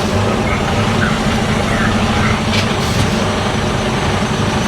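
Lorry's diesel engine running steadily, with a few faint clicks over it.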